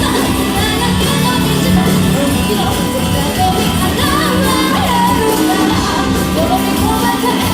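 A live band playing a song loudly, with a voice singing over the instruments.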